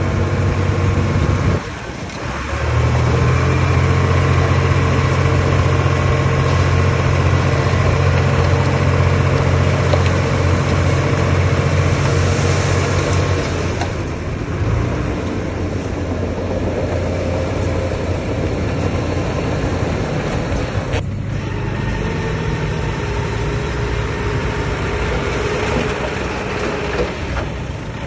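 Heavy earthmoving machine's diesel engine running steadily and loudly. It dips briefly about two seconds in, and its low note changes and drops from about halfway on.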